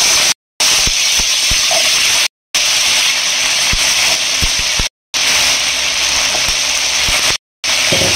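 Oil sizzling steadily in a kadai as chopped drumsticks, brinjal, beans and carrots fry with the shallot and curry-leaf tempering, with a few soft low knocks. The sound cuts out briefly four times.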